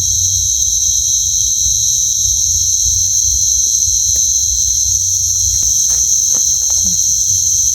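Steady high-pitched chorus of night insects, with faint scattered clicks and rustles and a low rumble underneath.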